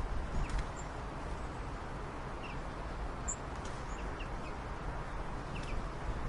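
A few short, high bird chirps scattered over a steady background of low rumble and hiss.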